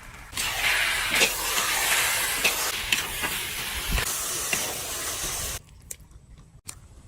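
Hot cooking sizzling: a loud hiss with scattered pops. It starts abruptly about half a second in and cuts off suddenly about five seconds later.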